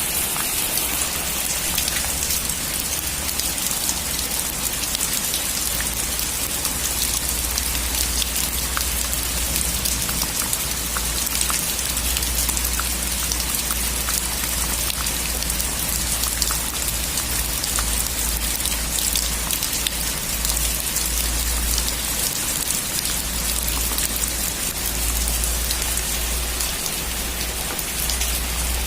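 Heavy rain falling steadily on a metal roof: a dense, even hiss with single drops ticking through it and a steady low rumble underneath.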